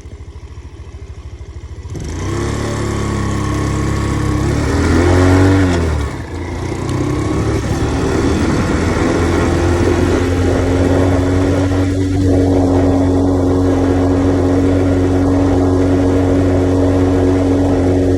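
Grom-clone mini motorcycle's small single-cylinder engine running low at first, then pulling away about two seconds in, rising in pitch through the gear. There is a brief drop near six seconds as it shifts, then it settles to a steady cruise with wind rush.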